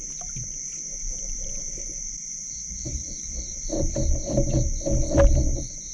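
Evening chorus of crickets and other insects: a steady high-pitched trill, joined about halfway through by a second insect chirping in even pulses. A few seconds in comes a louder stretch of low rustling and knocks.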